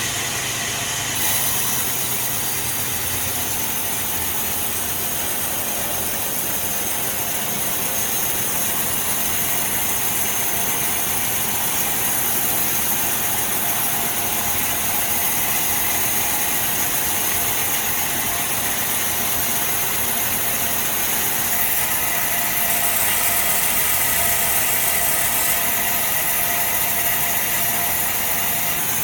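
Sawmill machinery running steadily: a constant engine-like mechanical drone with strong hiss.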